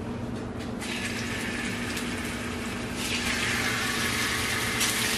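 Plantain slices sizzling in hot grapeseed oil as a fresh batch goes into the pan: the sizzle starts about a second in and grows louder about three seconds in.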